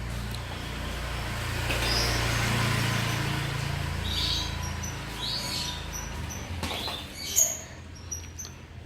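Small cage bird giving short, high chirps, several from about four seconds in, over a low steady rumble that fades out around six seconds in. A sharp click comes shortly before the last, louder chirps.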